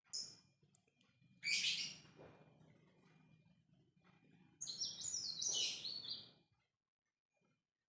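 Lovebird chattering in bursts of shrill, rapid chirps: a brief call at the start, a burst about a second and a half in, and a longer run of quick stepped notes from about five seconds in.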